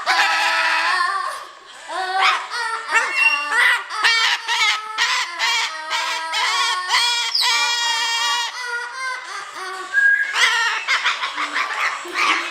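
Pet parrot singing: a fast, sing-song run of high squawks and whistle-like calls, with a short pause about a second and a half in.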